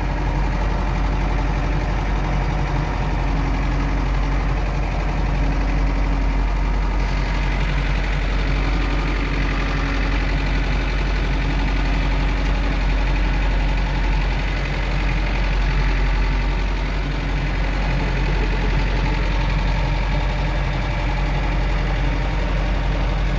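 Farm tractor engine running steadily as the tractor drives through snow, heard from the driver's seat.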